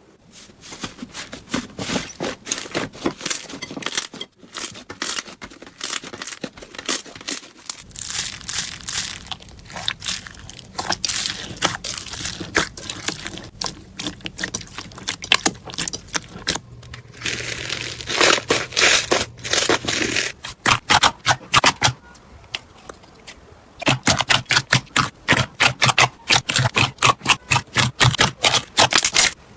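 Slime being squeezed, poked and stretched by hand, giving dense crackling and clicking pops. The texture of the crackle changes every several seconds as one slime gives way to another.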